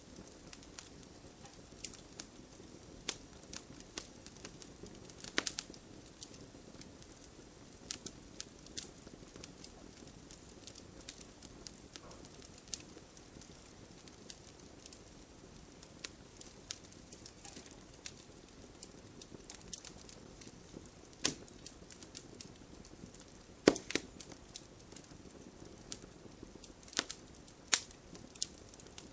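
Wood bonfire crackling, with irregular sharp pops and snaps over a steady soft hiss of rain; one pop late on is louder than the rest.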